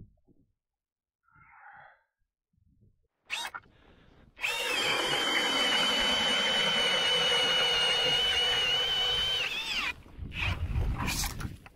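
Powered ice auger drilling a hole through lake ice. The motor runs at a steady whine for about five seconds, its pitch sagging just before it stops. Low thumps and rustling follow near the end.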